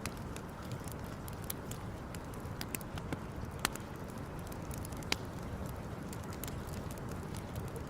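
Wood campfire crackling: many small sharp pops, with two louder snaps around the middle, over a steady low background noise.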